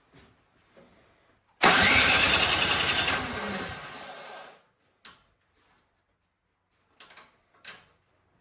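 Snow blower's small gasoline engine fires abruptly, runs briefly and dies away over about three seconds, its pitch falling as it stops. A few short knocks follow.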